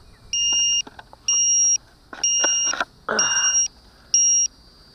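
Electronic low-battery alarm beeping: a high, steady two-tone beep about half a second long, repeating about once a second, five times. It signals that the RC helicopter's flight battery is flat.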